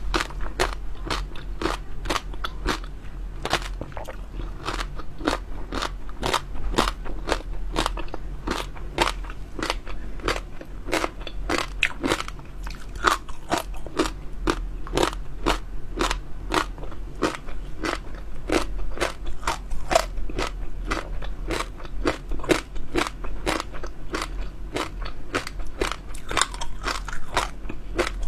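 Close-miked chewing of crunchy jelly pearls: a steady run of sharp crunches and crackles, a few every second.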